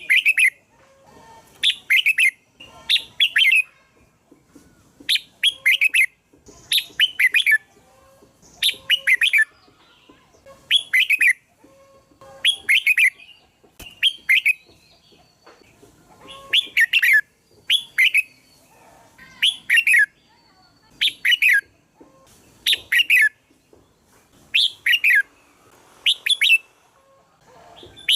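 Red-whiskered bulbul singing: short, quick phrases of several chirpy notes, repeated every one and a half to two seconds.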